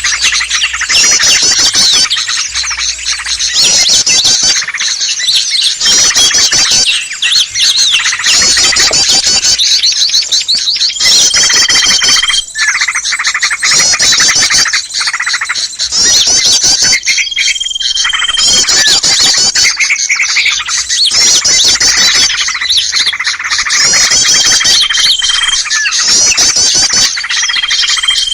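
Bird-lure recording of many small songbirds calling in a noisy chorus: dense chattering and squawks in repeated bursts of a second or two. A single steady high whistle is held for about a second, four times.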